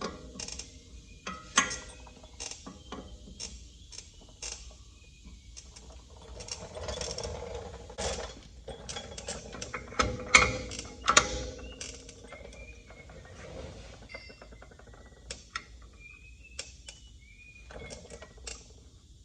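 Metal tools and steel parts clanking and clicking at irregular intervals, with a few sharper knocks about ten and eleven seconds in.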